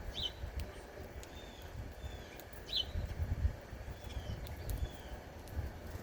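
Small wild birds giving short, high chirps and call notes every second or so, some curving down in pitch, over a low wind rumble.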